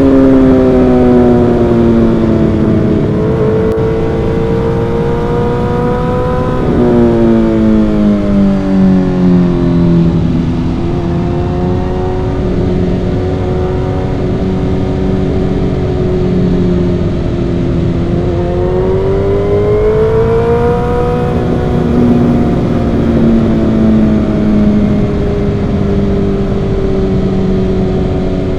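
Suzuki GSX-R1000 inline-four through an M4 aftermarket exhaust, ridden on the road: revs fall, climb, drop sharply once about a third of the way in as with a gear change, hold steady for a while, then climb again and slowly die away.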